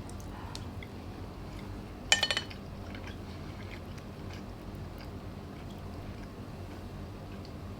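Tableware clinking briefly about two seconds in: a quick ringing rattle of a few strikes, over a steady low hum.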